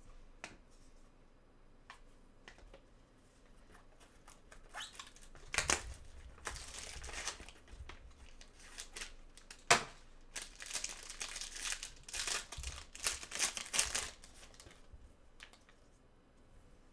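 Card-pack wrapper being torn open and crumpled, with crinkling bursts through the middle of the stretch and one sharp click partway through.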